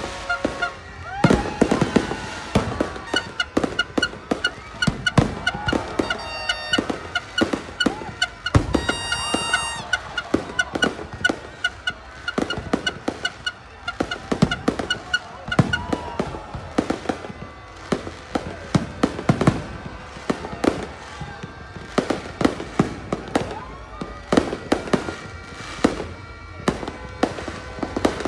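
Fireworks going off in rapid, irregular succession, dozens of sharp bangs and pops throughout. Shrill pulsing whistles run under them for the first half.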